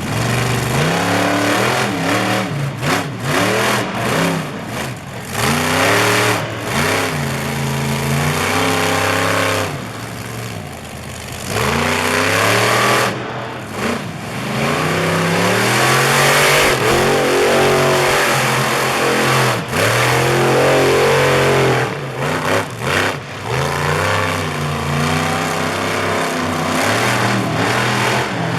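Monster truck engine revving hard and repeatedly, its pitch rising and falling over and over as the truck performs a trick run.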